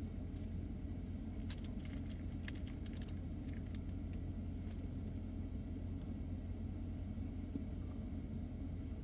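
Steady low hum of a car's engine idling, heard from inside the cabin, with a few faint clicks and rustles in the first few seconds.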